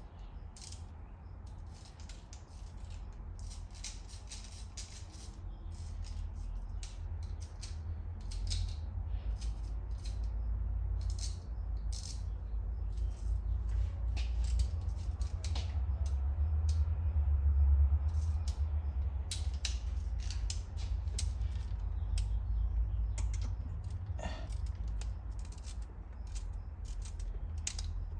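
Light metallic clicks and clinks of steel bolts being handled and started by hand into an engine's lower intake manifold, scattered irregularly over a low rumble that swells in the middle.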